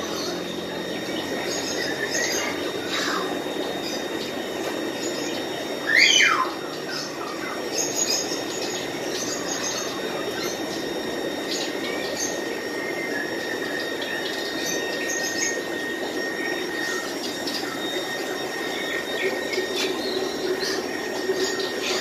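Caged small birds chirping, many short calls scattered throughout, with one loud call about six seconds in that sweeps sharply down in pitch, over a steady hum and a thin constant whine.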